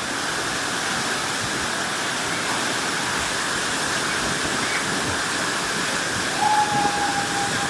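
Jogini waterfall, a mountain waterfall, rushing and splashing in a steady, unbroken roar of falling water. A short thin whistle-like tone sounds over it near the end.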